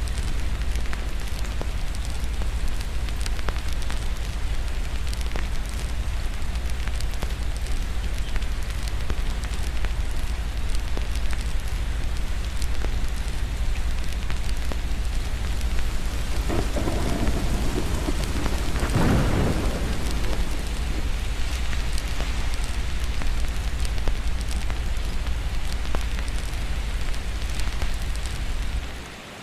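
Steady rain mixed with the crackle of a wood fire, small pops scattered all through. About sixteen seconds in, a roll of thunder swells and fades over some five seconds. The sound briefly dips near the end.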